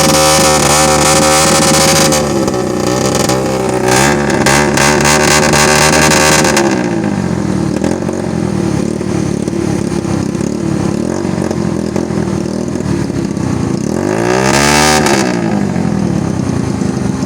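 Rickshaw engine running very loud and being revved, its pitch rising and falling; a strong rev swells and drops back about three-quarters of the way through.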